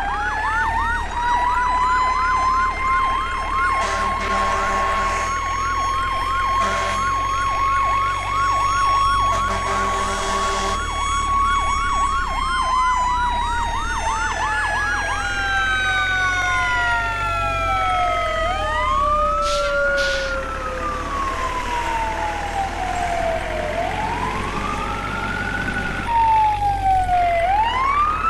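Several emergency-vehicle sirens sounding together: a fast yelp repeating about three times a second over a long steady wail for roughly the first half, then slow wails sweeping down and whooping back up. A lower horn-like tone sounds twice in the first half.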